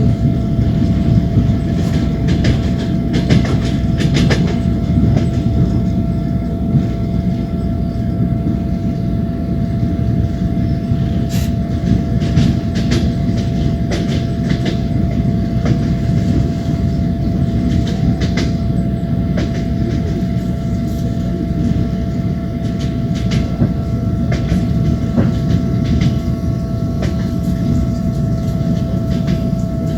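Passenger train running along the line, heard from aboard: a steady rumble of wheels on rail with scattered clicks of the wheels over the rail joints, and a steady high whine under it.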